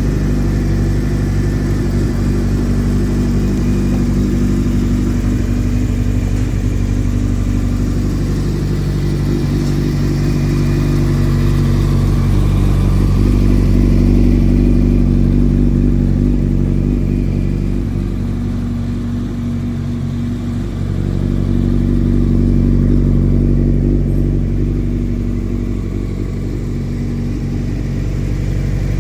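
Honda CBR900RR Fireblade's inline-four engine running steadily, its pitch and loudness swelling gently a few times.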